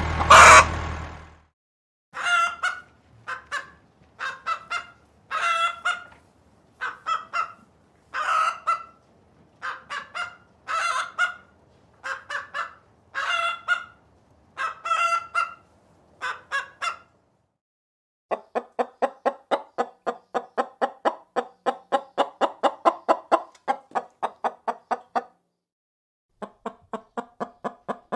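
Chickens clucking: first a string of short, separate clucks in small clusters, then a fast, even run of clucks, about five a second, that pauses briefly and starts again near the end.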